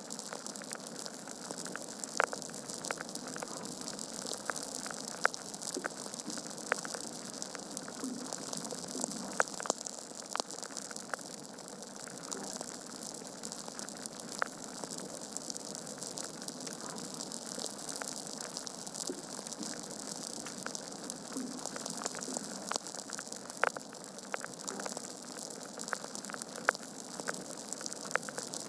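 Wood fire burning in a fireplace: a steady hiss and rustle of flames with frequent irregular sharp crackles and pops from the burning logs.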